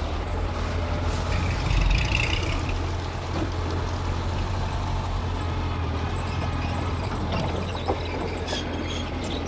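Mitsubishi G2 bulldozer's diesel engine running steadily, swelling a little about two seconds in.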